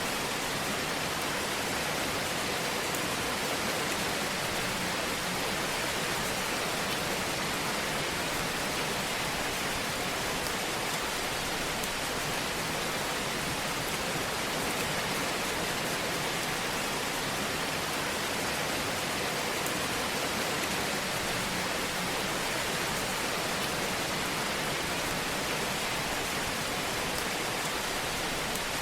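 Fire burning in a fireplace: a steady, even rushing hiss with a few faint crackles.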